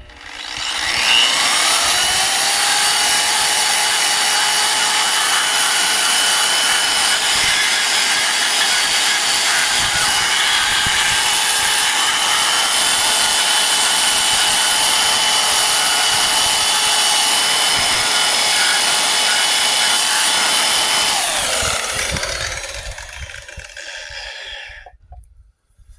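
Hand-held electric burnishing tool with an 80-grit abrasive stripping wheel spinning up and stripping paint from a truck's steel body: a steady motor whine over a rough hiss. About 21 seconds in it is switched off and the pitch falls away as the wheel winds down.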